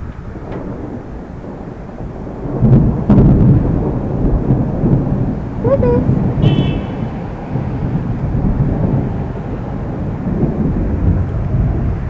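Thunder rolling: a loud, long, low rumble that swells suddenly about three seconds in and keeps rumbling. A couple of short pitched calls stand out briefly around the middle.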